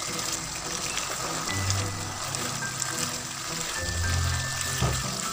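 Mutton in tomato and black-pepper masala sizzling in a kadhai over high heat as it is stir-fried with a spatula, the final bhuna stage, under background music with sustained low bass notes.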